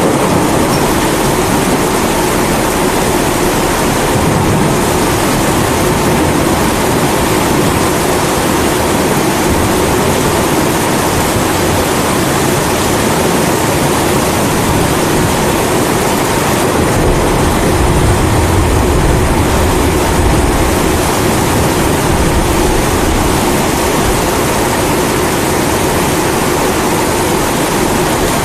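Kerosene pressure stove (Primus) burning steadily, mixed with the even hiss of rain; a low rumble of distant thunder swells a little past the middle.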